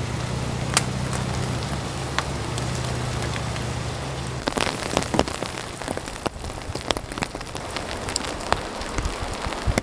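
Steady rain falling, with scattered sharp, louder drops. A low steady hum runs underneath and stops about four and a half seconds in.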